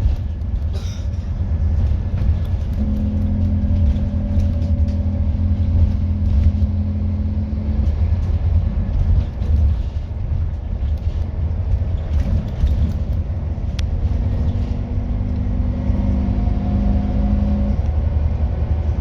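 Scania N230UD double-decker bus running, with a steady low rumble throughout. A steady whine comes in about three seconds in for around five seconds, and again for about three seconds near the end, with small rattles and clicks over it.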